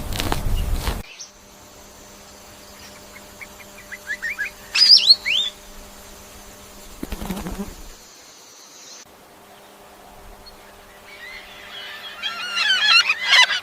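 Birds chirping: a second of rustling noise cuts off, then a short run of quick rising chirps, and near the end a dense burst of overlapping chirps.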